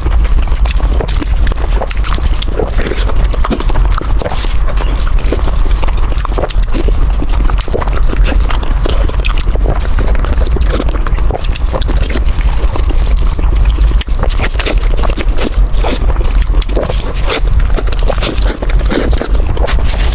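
Close-up eating sounds of a person chewing, a dense run of irregular short wet clicks and crackles over a steady low rumble.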